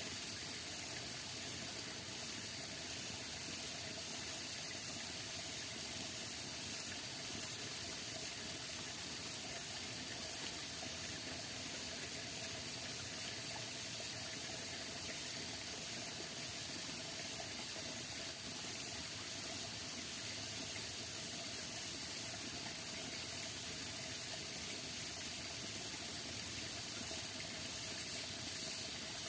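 Steady rain falling, an even unbroken hiss with a constant high-pitched ring over it.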